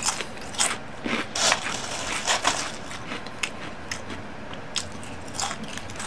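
A person chewing crispy fried batter pieces with the mouth close to the microphone: irregular crunches, a few each second.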